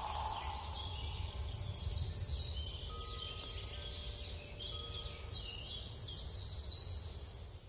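Small birds singing outdoors: a run of short, high chirps repeating over a steady low rumble of outdoor background noise.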